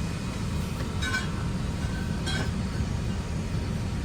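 Steady low drone of an airliner cabin, with two short clinks about one and two seconds in.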